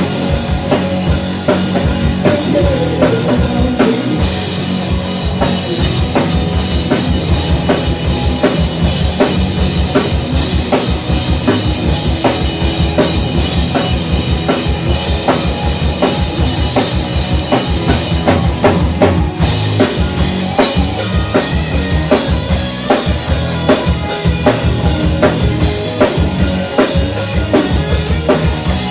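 Live rock band playing a song, with a drum kit to the fore: steady kick drum and snare hits over sustained guitar and bass.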